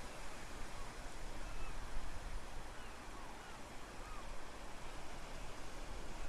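Steady outdoor ambience of Venice: a wash of noise with a low rumble underneath, and a few faint short chirps around the middle.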